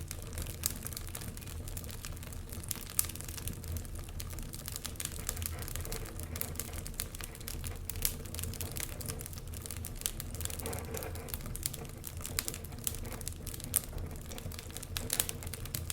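Wood fire crackling in a fireplace: a dense run of irregular small pops and snaps over a steady low rumble, with a few louder pops about 3, 8 and 14 seconds in.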